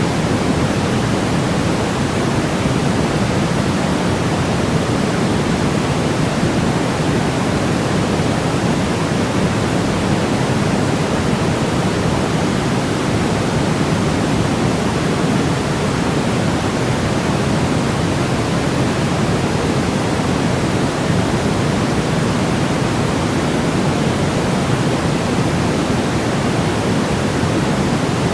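Steady white noise for baby sleep: a constant, even hiss weighted toward the low end, with no change in level or pitch.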